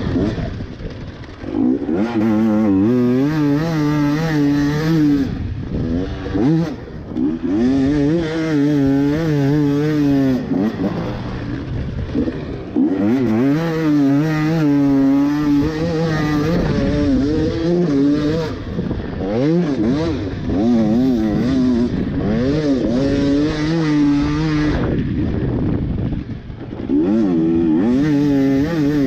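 Husqvarna TE250i two-stroke enduro engine being ridden hard, revving up and down over and over as the rider accelerates, shifts and backs off. Its pitch warbles and rises and falls continuously, with short lulls every few seconds.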